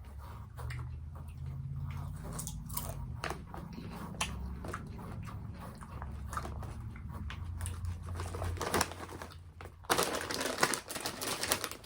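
Someone chewing Oreo-coated popcorn, with many sharp crunches. Near the end a denser rustling noise takes over for about two seconds.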